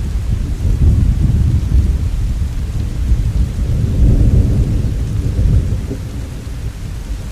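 Steady rain with a low rumble under it, swelling about a second in and again around four seconds, then easing off.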